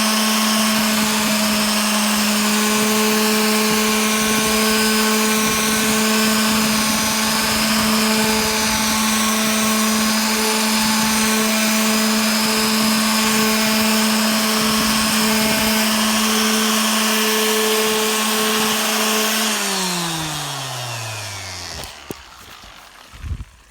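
Electric sander running steadily at one pitch with a steady hum, sanding 320-grit over the copper-epoxy antifouling of a rudder. Near the end it is switched off and winds down, its pitch falling away over a couple of seconds, followed by a few light knocks.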